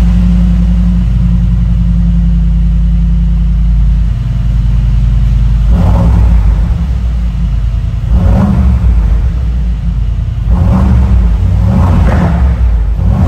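Brabus 800 G-Class's twin-turbo 4.0-litre V8 idling with a steady low rumble, then revved in a series of short blips, one every one to two seconds, from about six seconds in.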